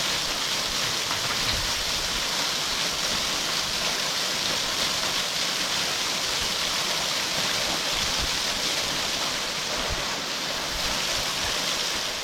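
Waterfall running with a steady rush of falling water.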